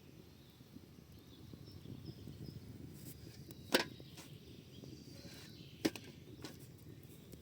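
Wood campfire crackling, with a few sharp pops or knocks standing out about four, six and six and a half seconds in.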